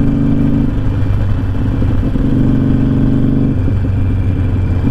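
Harley-Davidson Sportster 1200 V-twin engine running under way, heard from the rider's seat with wind rushing past. The steady engine note breaks up and shifts in pitch briefly, about a second in and again after about three and a half seconds.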